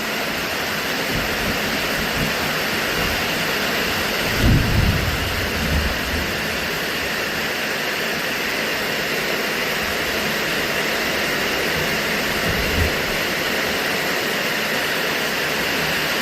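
Heavy rain falling steadily, with a brief low rumble about four and a half seconds in and a few smaller low thumps.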